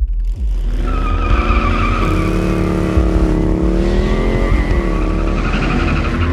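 Motorcycle engine running hard, its pitch climbing and falling as it revs, with a high wavering squeal over it.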